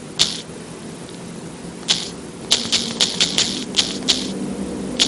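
Irregular sharp clicks, sparse at first and then several a second from about halfway through, over a faint low hum.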